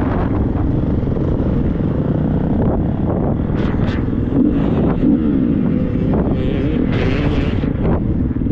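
Triumph 250 four-stroke motocross bike engine running hard under load, its pitch rising and falling with throttle changes, with wind buffeting the helmet-mounted microphone.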